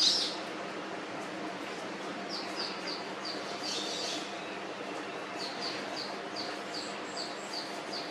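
A small bird chirping: short, high chirps repeated about three times a second in two runs, over a steady background hum. A sharp knock comes right at the start.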